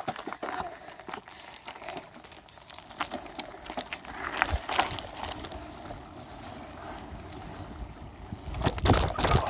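Bicycle being ridden, heard from a phone taped to the front of the bike: rolling noise with scattered knocks and rattles, and a louder rush of noise near the end.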